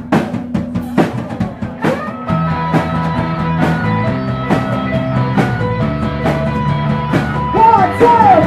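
Live rock band playing a song's instrumental intro: steady drum-kit hits with distorted electric guitar and bass, the full band coming in about two seconds in.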